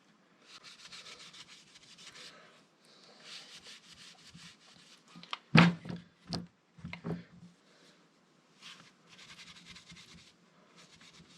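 Motorcycle engine parts being cleaned by hand: spells of scratchy rubbing strokes, with a few sharp knocks around the middle.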